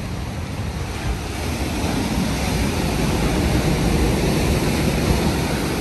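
Ocean surf: a wave's rush of white water swelling to a peak about four to five seconds in, then starting to ease.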